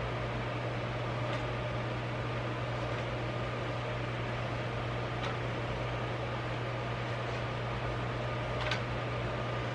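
Steady low mechanical hum, with a few faint light clicks, the clearest one near the end.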